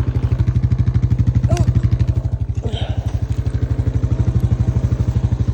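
Honda Foreman ES ATV's single-cylinder four-stroke engine idling with a steady, even putter.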